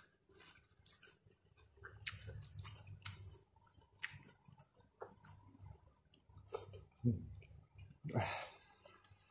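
Close-miked mouth sounds of a person eating fruit rujak: soft chewing with scattered wet lip-smacking clicks, and two brief murmurs of the voice near the end.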